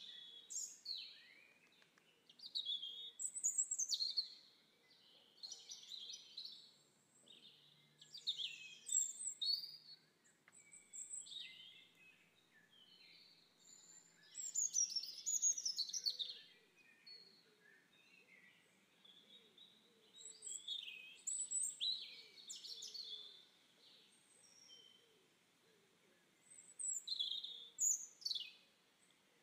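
Songbirds singing and calling in repeated bursts of chirps and quick falling whistles, with short pauses between phrases.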